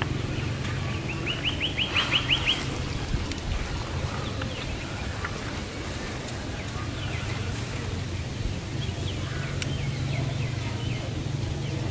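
Outdoor pond-side ambience with a small bird calling: a quick run of about eight short, falling chirps about a second in, then scattered fainter chirps later, over a steady low hum.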